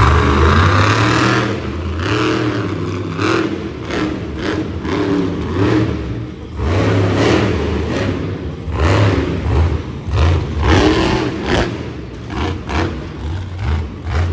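Mega-Wrex monster truck's engine being revved hard in repeated bursts, its pitch climbing and dropping again with each blip of the throttle.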